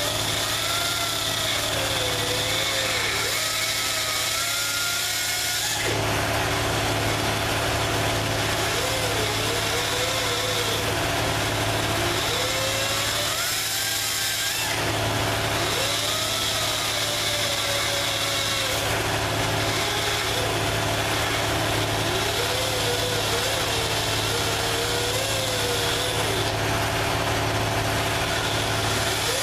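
Electric grinder running and grinding on a truck flywheel, its whine wavering and dipping in pitch as it bears down, easing off briefly twice.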